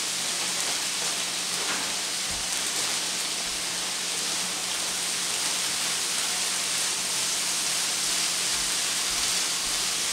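Sliced vegetables sizzling steadily as they fry in a skillet over a gas burner.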